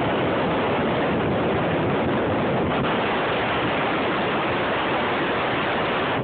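Strong blizzard wind blowing straight across the camera microphone, a steady loud rush of noise that never lets up.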